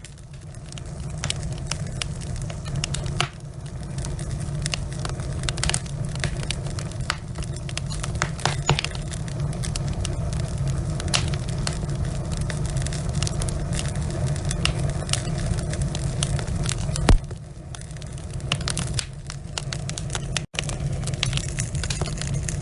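Wood fire burning in a fireplace: logs crackling with frequent sharp pops over a steady low rumble of the flames. One loud pop comes about three-quarters of the way through, and the sound cuts out for an instant shortly after.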